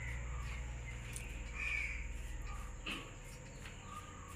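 A bird giving several short calls, over a low steady hum, with one knock a little before three seconds in.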